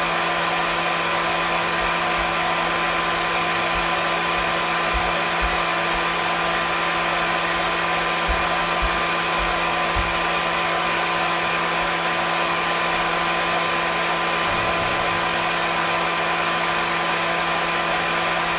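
Hair dryer running steadily: an even rushing blow of air with a steady motor hum and whine held in it, unchanging throughout.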